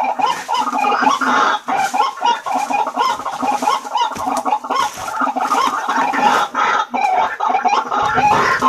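White-breasted waterhen calling: a dense, unbroken run of short repeated harsh calls.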